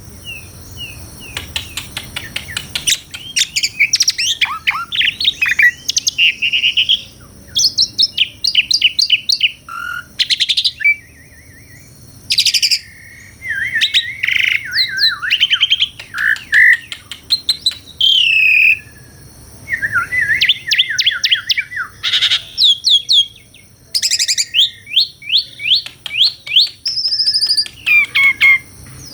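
Asian pied starling (jalak suren) singing a long, varied song: phrases of rapid chattering notes, clear whistles and sliding pitch glides, broken by short pauses.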